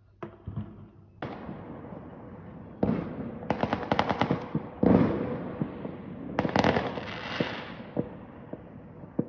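Fireworks going off: a string of sudden bangs, each trailed by hissing and dense crackling, with the loudest burst about five seconds in.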